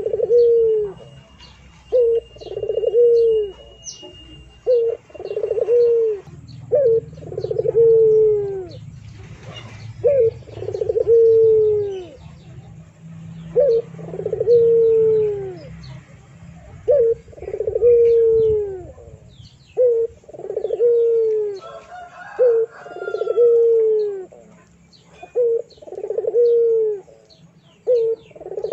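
A dove cooing close by, repeating the same phrase about every three seconds: a short note followed by a longer note that falls in pitch. Small birds chirp faintly in the background.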